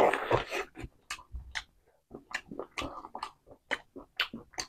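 Close-up eating sounds: a noisy bite and tear at a piece of curried country chicken at the start, then wet chewing with a string of sharp mouth smacks and clicks, a few a second.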